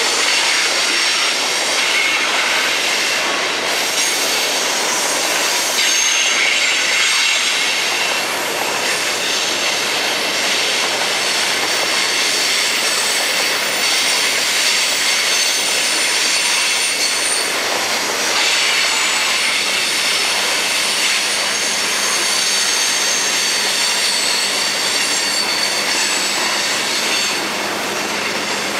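Freight train cars rolling past on steel rails, the wheels squealing in high-pitched tones that come and go over a steady rumble.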